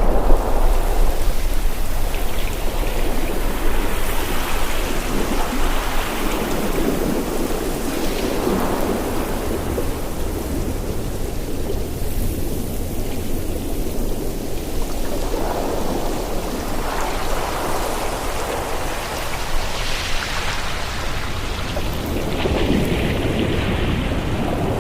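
Ocean waves breaking and washing on a shore, a surge every few seconds over a steady low rumble, loudest near the start.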